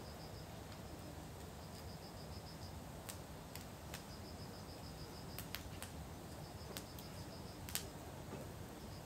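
Faint outdoor ambience: insects chirping in short, rapid high-pitched trills about a second long that repeat with pauses, with sharp pops of a crackling campfire scattered through, the loudest pop near the end.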